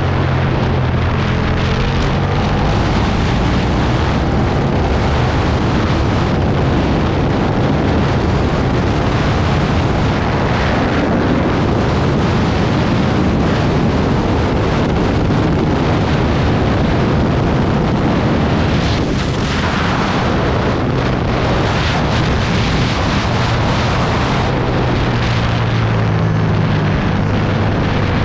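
Aprilia Tuono V2 1000's V-twin engine running hard at track speed, its note steady low down near the start and end, under a heavy, continuous rush of wind across the microphone. Briefly dips in loudness about two-thirds of the way through.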